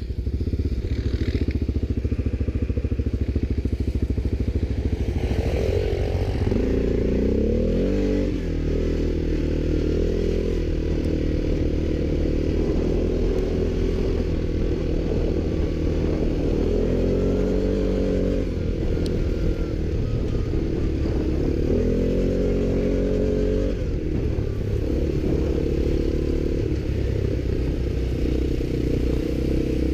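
ATV engine running steadily under throttle, its pitch rising and falling in a few revs.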